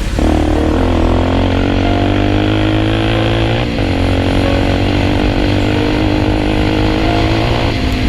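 Dirt bike engine running steadily under throttle on a trail ride, with a brief dip in revs a little under four seconds in.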